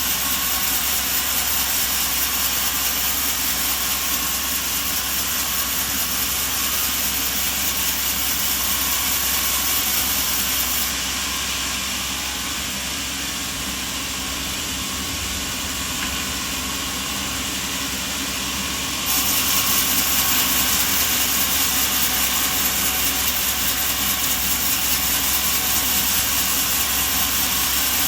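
Machinery running with a steady, hissing drone. A little past a third of the way in it turns quieter and duller for about eight seconds, then comes back louder.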